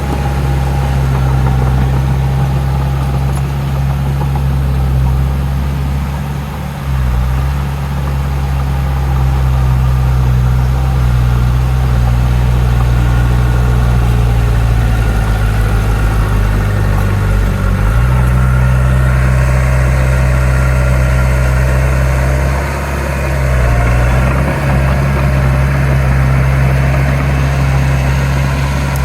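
Heavy diesel engine of earthmoving machinery running steadily with a deep, low note that dips in pitch briefly about three times.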